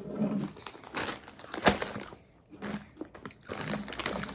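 Irregular crunching and crinkling of Doritos tortilla chips being handled and eaten close to the microphone, a run of sharp crackles with the loudest a little past halfway.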